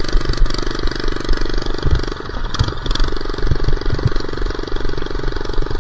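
Minibike's small engine running steadily while being ridden, with a few low thumps over the engine note.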